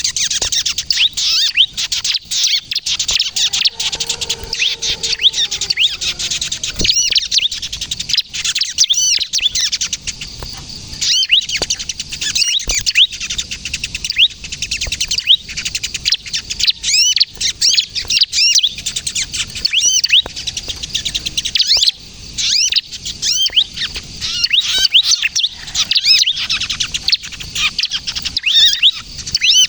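Bar-winged prinia (ciblek) singing non-stop, a rapid, dense run of high, sharp chirps and short trills repeated with hardly a pause.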